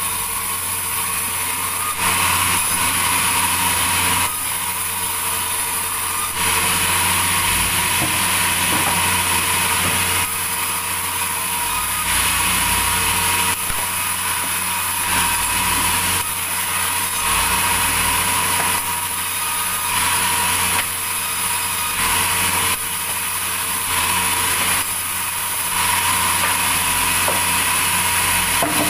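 Sawmill saw running and cutting timber: a loud, steady mechanical noise that shifts abruptly every couple of seconds.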